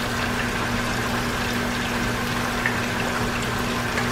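Pork chops and chicken frying in hot oil: a steady sizzle with scattered small crackles, over a low steady hum.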